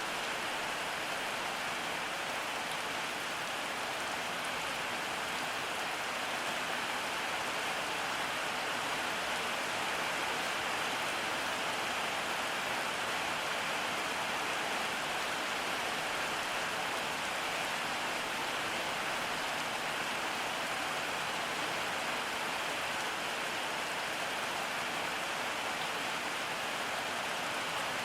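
Steady rain falling, an even hiss of many drops with no lulls or single loud hits.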